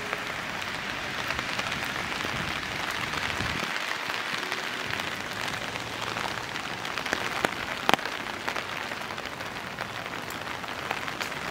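Steady rain falling, with a few sharper drops hitting about two-thirds of the way through.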